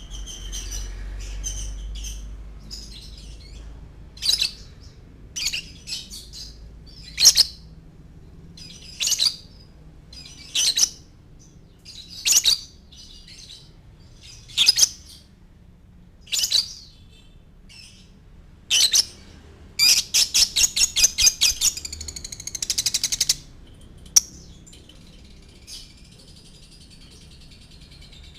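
Lovebird calling: sharp, shrill single chirps every second and a half to two seconds, then a rapid chattering trill lasting about three and a half seconds near the end, as in a lure (pancingan) recording used to set other lovebirds singing.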